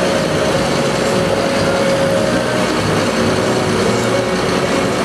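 Diesel engine of a Mercedes-Benz Atego-based Magirus aerial ladder truck running steadily, with a steady whine on top.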